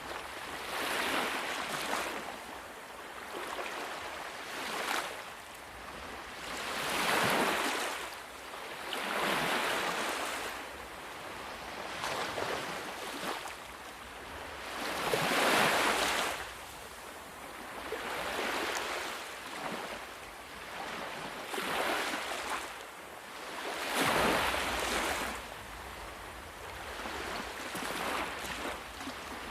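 Ocean waves breaking and washing on a shore, one wave swelling and fading every two to three seconds, with a few louder breakers among them.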